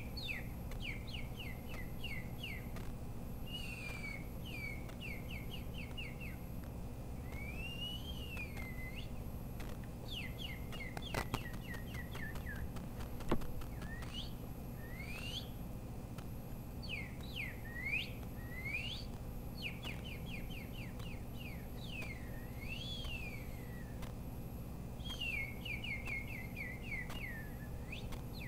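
A bird singing in repeated phrases: quick runs of down-slurred chirps alternating with slower rising-and-falling whistled notes, with short pauses between phrases. Two sharp clicks come about 11 and 13 seconds in, over a steady low hum.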